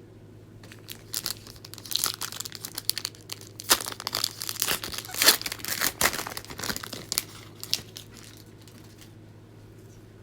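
Plastic wrapper of a basketball trading-card pack being torn open and crinkled, a dense run of crackles lasting several seconds.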